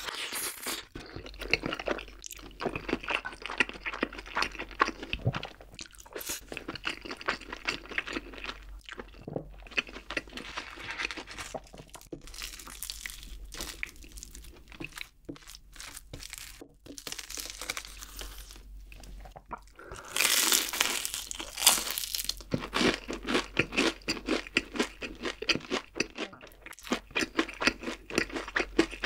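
Close-miked eating sounds: chewing and crisp crunching bites of a breaded fried pork cutlet, a dense run of crackles that is loudest about twenty seconds in.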